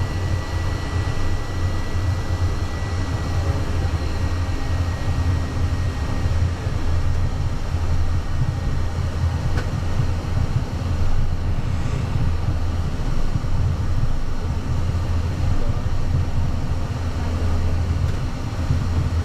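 Cockpit noise of a Cessna Citation V Ultra taxiing: the twin turbofan engines at low power give a steady low rumble under an even hiss. A faint high steady tone fades out in the first few seconds.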